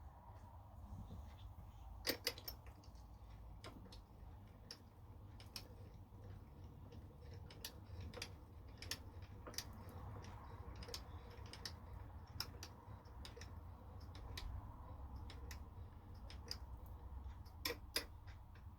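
Scattered light clicks and taps at an irregular pace over a low steady hum, with a few sharper clicks about two seconds in and near the end.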